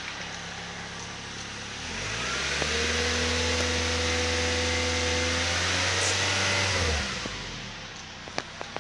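2010 Suzuki Kizashi's 2.4-litre four-cylinder engine idling. About two seconds in it is revved up and held at a steady higher speed for about five seconds, then drops back to idle. The engine is being run in a free-rev test and is reported to test good.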